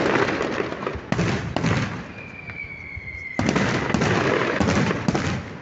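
Fireworks display: aerial shells bursting with sharp bangs and crackling tails, a quick run of bursts at the start and another from about three and a half seconds in. In the lull between them a thin, high, steady whistle sounds.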